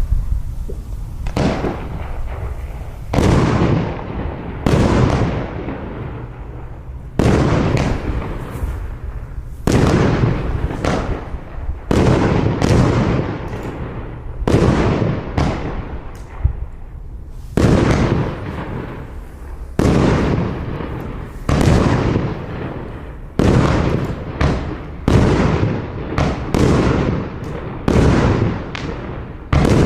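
Iskra Widmo 1 19-shot fireworks battery firing shot after shot, about one every one to two seconds. Each shot is a sharp report followed by a hissing burst that fades over a second or so. The shots are tail-rising comets breaking into changing stars.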